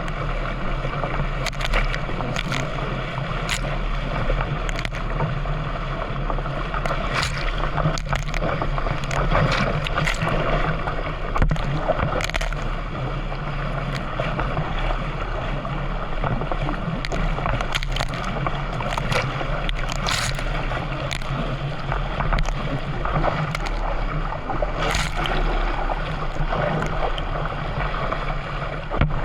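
Kayak or canoe paddle strokes splashing in the water, irregular and about a second apart, over a steady rushing of water and a constant low hum.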